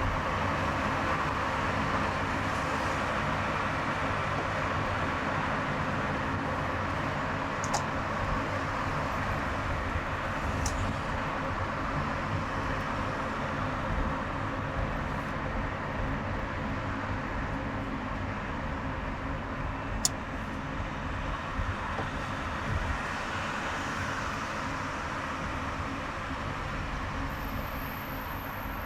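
A car driving on a highway: steady road and engine noise with a low hum. A few sharp clicks come through, and a thin high whine starts near the end.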